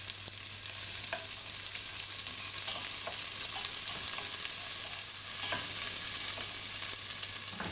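Chopped onion sizzling steadily in hot oil over tempered mustard, fenugreek and cumin seeds, with a spoon stirring and scraping the pan in scattered small clicks.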